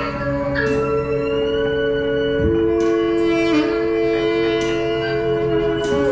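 Free-improvised ensemble music: several long held wind-instrument notes sounding together, shifting pitch a couple of times, with short percussion accents on top.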